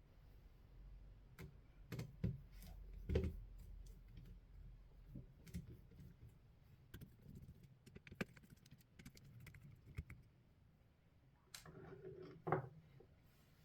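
Scattered small clicks and light knocks of tools and small parts being handled while a Xiegu X6200 transceiver is taken apart, with the loudest knocks about three seconds in and near the end.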